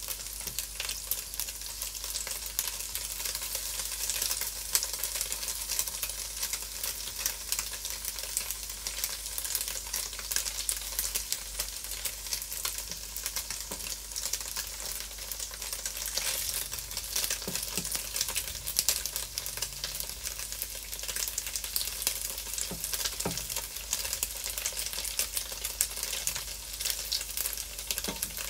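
Cubes of tofu frying and sizzling in a non-stick frying pan, stirred and turned with a wooden spatula that knocks softly against the pan a few times.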